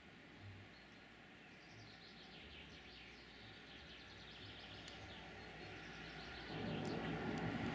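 Faint songbirds chirping over quiet outdoor background noise, with a louder, steady noise coming in near the end.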